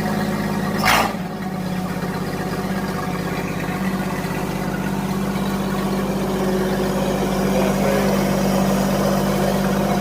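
Rat rod truck engine idling steadily, with one sharp knock about a second in. The idle grows a little louder over the last few seconds.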